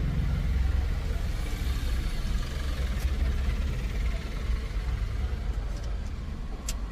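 Low steady rumble of a car engine idling, heard inside the cabin. Two light clicks, about three seconds in and near the end, come from the plastic head-unit frame being handled.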